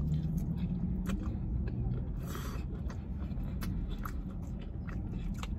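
A man chewing a mouthful of garlic noodles close to the microphone, with wet mouth clicks and smacks throughout and a short hiss about two and a half seconds in, over a steady low rumble.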